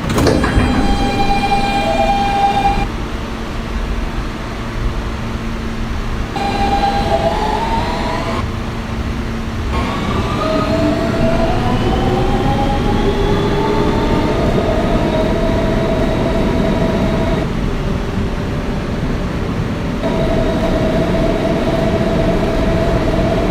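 Siemens AC traction motors of an R160B subway car whining as the train pulls away, with a knock at the start. The tones step and then rise in pitch as the train accelerates, settling into a steady whine over track rumble once the train is up to speed.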